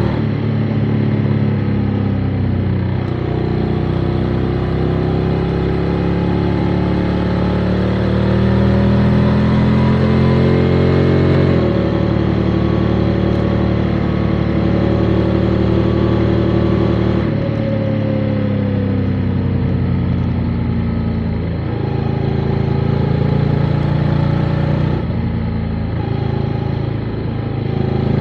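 Motorcycle engine running under way. The revs climb slowly, drop sharply about twelve seconds in as it shifts up, hold steady, then fall off and pick up again.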